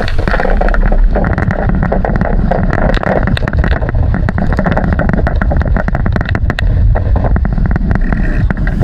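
Wind buffeting the microphone aboard a racing sailing dinghy under way, over a rush of water along the hull. Many small knocks and rattles from the boat's fittings are scattered throughout.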